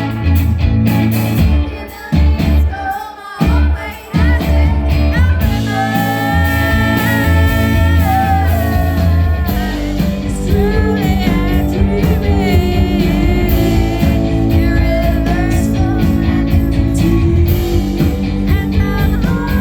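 Live rock band with a woman singing over electric guitar, bass and drums. The band drops out briefly a couple of seconds in, then comes back in, with long held sung notes.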